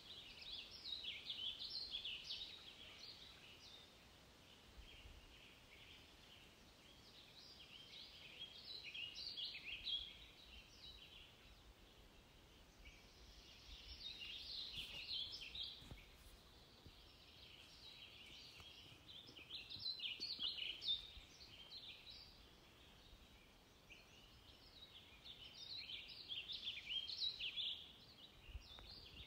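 High-pitched birdsong in five bursts of two to four seconds each, with a faint steady hiss in between.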